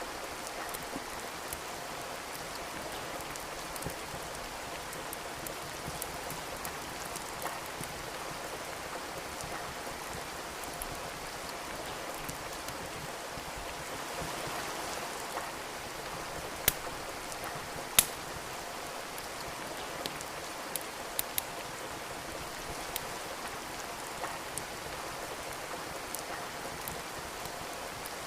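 Steady rain with the sharp crackles and pops of a burning wood fire scattered over it, two louder pops about two-thirds of the way through.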